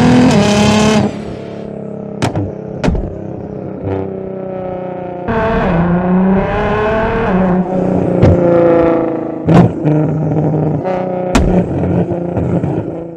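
Nissan GT-R R35 twin-turbo V6 engine revving, its pitch rising and falling over several pulls, with a handful of sharp cracks between the revs.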